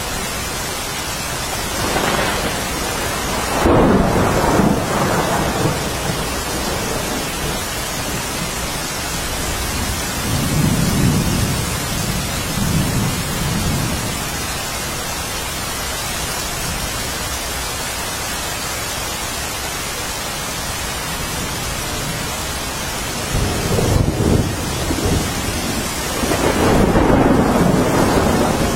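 Steady rain falling as an even hiss, with rolls of thunder rumbling three times: a few seconds in, around the middle, and again near the end.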